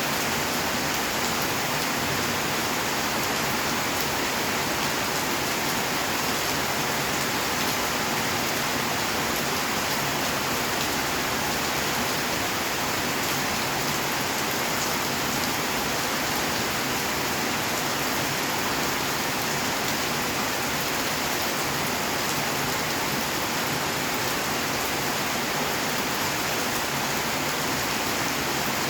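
Steady rainfall, a dense even hiss of drops pattering on surfaces.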